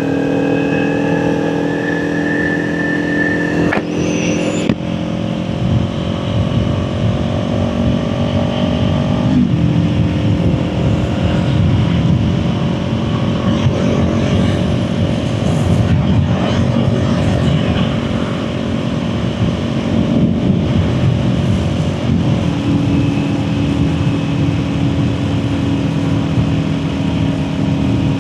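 Kawasaki Ninja 400's parallel-twin engine running at steady riding speed, its note shifting to a new pitch a few times, over steady low wind rush.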